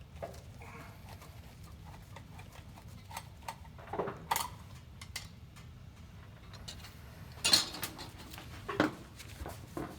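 Scattered metal clinks and knocks of hand tools and parts as the metal cover plate of a B&G Series 100 circulator pump is opened to get at the coupler, the loudest knocks about four and seven and a half seconds in, over a steady low hum.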